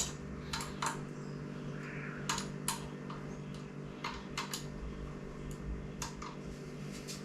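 Hand wrench on the motorcycle's wheel bolts while they are being tightened: sharp metal clicks, mostly in pairs, every second and a half to two seconds, over a steady low hum.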